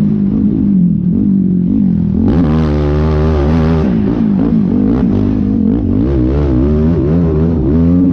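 Yamaha YFZ450R quad's single-cylinder four-stroke engine being ridden hard, its revs rising and falling quickly as the throttle goes on and off. About two seconds in the throttle opens wide and the engine pulls to higher revs for a second and a half, then drops back to the quick up-and-down revving.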